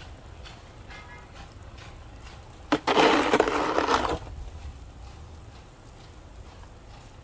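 A sharp click, then a crunching scrape lasting about a second, over a faint steady hiss.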